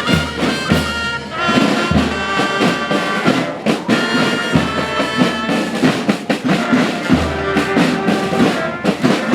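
A brass band playing, with trumpets and trombones holding notes over drums and a deep bass line.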